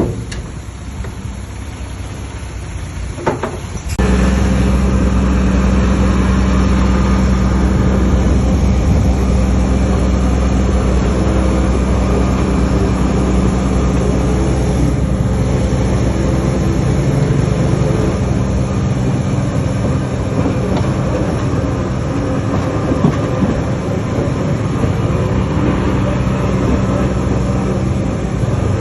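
Heavy earthmoving diesel engine running steadily under load. There are a couple of knocks in the first few seconds; about four seconds in, the engine sound jumps sharply louder and stays loud and even.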